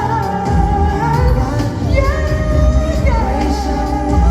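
Live pop ballad: a band playing under a singer's long held notes that glide between pitches.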